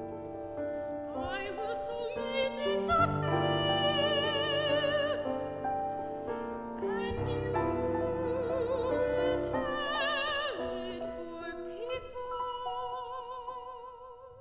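Classical soprano singing with wide vibrato over piano accompaniment; near the end she holds a long note that fades away.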